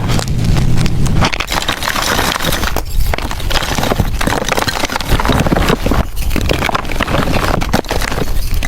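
Blocks of gym chalk crushed by hand, crunching and crumbling in a dense, continuous run of crackles.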